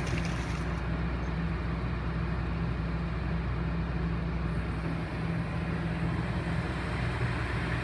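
Kobelco SK140-8 excavator's diesel engine running steadily.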